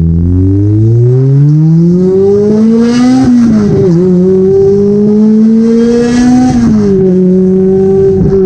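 Toyota 2ZZ-GE four-cylinder engine in a Corolla accelerating through the gears. The revs climb for about three seconds and drop at an upshift. They climb again and drop at a second upshift a little before seven seconds in, then hold fairly steady.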